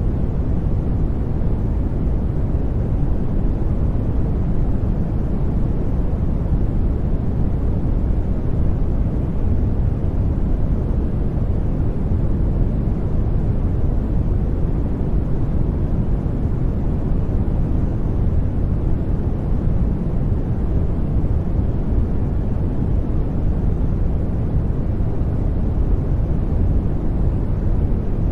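Steady, unchanging sleep noise, a deep rumbling hiss strongest in the bass and soft in the treble, like brown noise, with no events in it.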